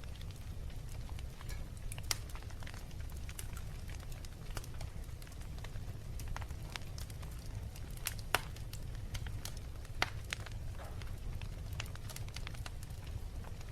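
Wood fire in a fireplace crackling, with irregular snaps and pops over a steady low rumble; two louder pops come about eight and ten seconds in.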